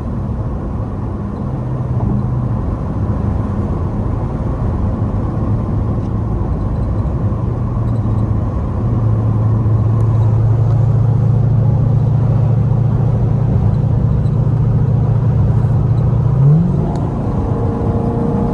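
Straight-piped Dodge Durango V8 exhaust droning steadily while driving, getting louder about halfway through, with a quick rise in engine pitch near the end.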